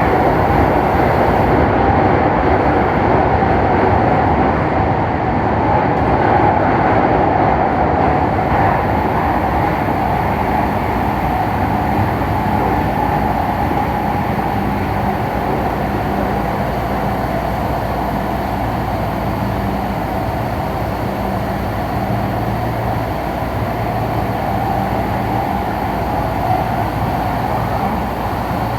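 Electric commuter train of the Tokyu Den-en-toshi Line running along the track, a steady rumble of wheels and running gear heard from on board. A faint low hum comes in partway through.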